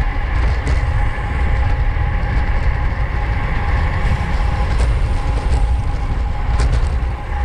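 Wind rushing over a bike-mounted camera's microphone with road rumble from a racing bicycle moving at speed in a pack, a steady low buffeting with a few faint clicks.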